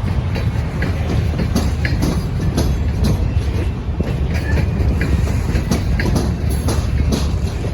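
Ballast train rolling past: a steady low rumble with wheels clicking irregularly over rail joints.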